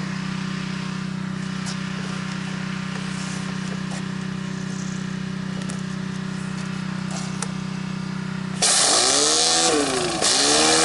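Gas pressure washer engine running steadily. Near the end the spray opens with a loud hiss, and the engine's pitch dips under the load and recovers, twice, then holds steady.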